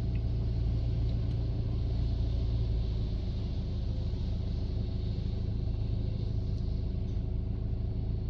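Steady low rumble and hum heard from inside a car's cabin in a touch-free car wash tunnel: the car idling in neutral while the tunnel machinery runs around it.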